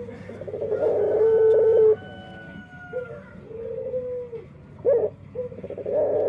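A male puter (ringneck) dove cooing: a long loud coo in the first two seconds, softer coos after, a short sharp note about five seconds in, and another loud coo near the end. Its voice is the unusual kind that the keeper wonders is a unique voice or a defect.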